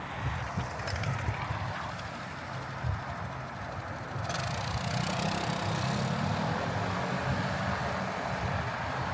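City street traffic: vehicles passing with engine rumble and tyre noise, growing louder from about four seconds in as a vehicle goes by.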